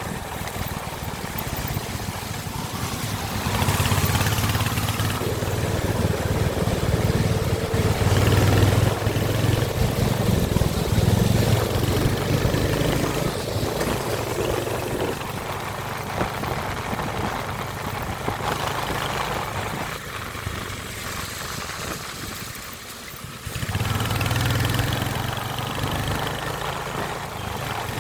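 Royal Enfield Hunter 350's single-cylinder engine running, swelling and easing in level, with a quieter dip that picks up again sharply a few seconds before the end.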